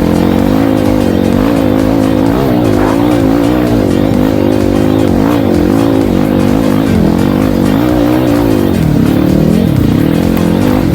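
Dirt bike engine running with the throttle worked on and off, its pitch rising and falling again and again.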